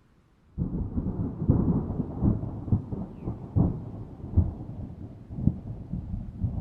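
Thunder: a clap that starts suddenly about half a second in, then rolls on with many sharp cracks.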